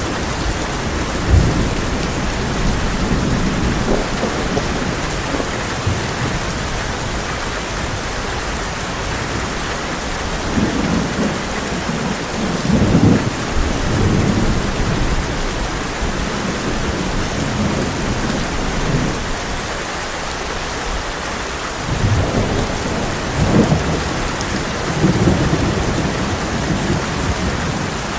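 Heavy rain falling steadily on a tin roof, with low rolling thunder that swells twice, once in the middle and again near the end.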